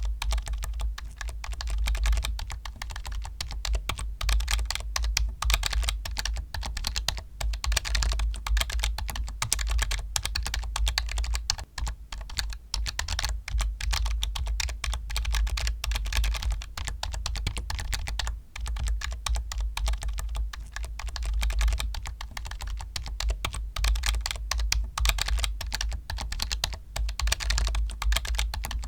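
Continuous fast typing on a computer keyboard: a dense, rapid run of keystroke clicks with a couple of brief pauses.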